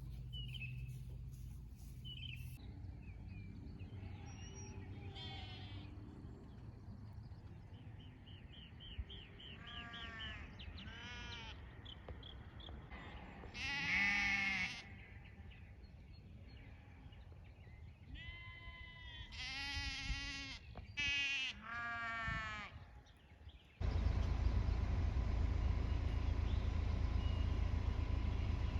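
Sheep bleating on and off: several wavering calls, the loudest about fourteen seconds in and a cluster a little after twenty seconds. Near the end the sound cuts suddenly to a steady, louder rumbling noise.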